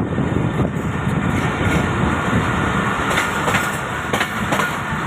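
Allama Iqbal Express passenger train running, a steady loud rumble of wheels on track with a few sharp clacks from the rail joints in the second half.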